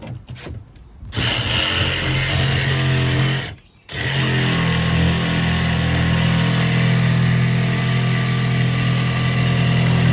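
Jigsaw cutting into the boat's floor, its motor running steadily from about a second in, stopping briefly about a third of the way through, then starting again and running on.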